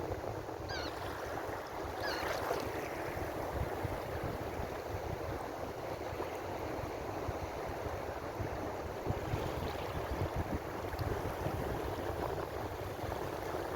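Ocean surf: waves washing in continuously with a steady rushing noise that swells and eases slightly.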